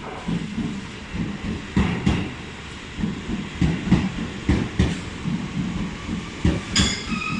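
Electric train running into the station, its wheels clacking over the rail joints in a run of uneven low thumps, with a brief high squeal near the end.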